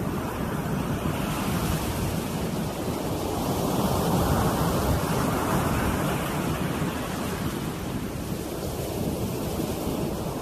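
Ocean surf washing onto the shore, with wind buffeting the microphone; the wash swells louder around the middle.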